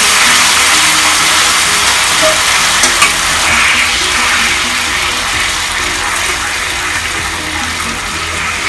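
Sweet and sour sauce mixture poured from a bowl into a hot wok of fried garlic, sizzling and hissing as it spreads, stirred with a metal spatula. The sizzle slowly fades as the liquid cools the pan.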